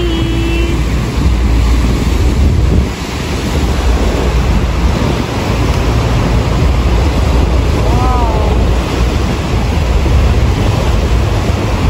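Wind buffeting the microphone over the rush of waves and water around a moving boat.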